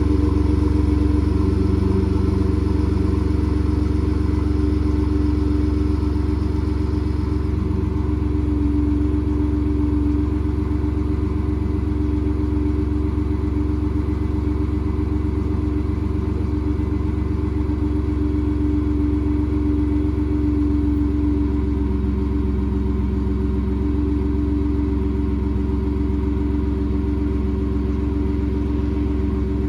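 Ford 3.5 EcoBoost twin-turbo V6 idling steadily after a cold start, its exhaust running through the factory muffler with a 3-inch pipe in place of the resonator. The deep, even rumble eases slightly in loudness over the first several seconds.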